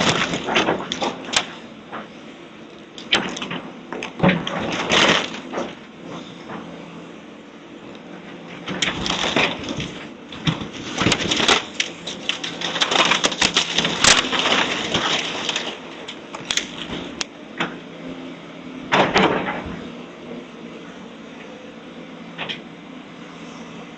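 Wood and debris cracking, splintering and crashing in irregular bursts as a house is demolished, over a steady low machine hum.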